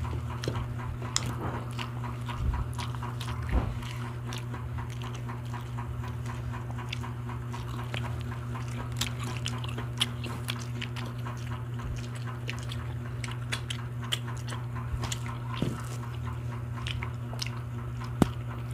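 Close-up eating sounds: several people chewing grilled barbecue meat and rice, with many small wet mouth clicks and lip smacks over a steady low hum. One sharper click comes near the end.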